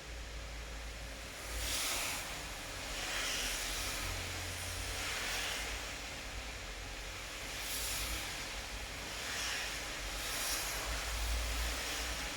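Steady rain falling, an even hiss over a low rumble, with short swells of brighter hiss coming and going every second or two.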